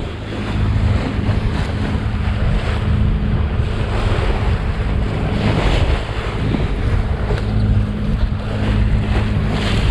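Wind buffeting the microphone and sea water rushing and splashing past the hull of a sailboat under way, with a steady low hum underneath.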